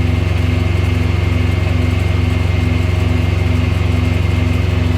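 Engine idling steadily with a low hum and a pulsing beat about twice a second.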